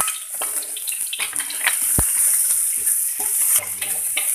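Sliced shallots frying in hot oil in an iron wok: a steady sizzle, with clicks and scrapes of a spatula stirring them and a single knock about two seconds in.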